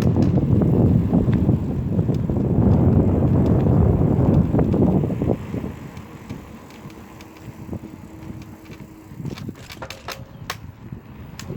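Bicycle ride with wind rushing over the microphone and a low rumble for about five seconds, then quieter riding noise with scattered clicks and rattles near the end.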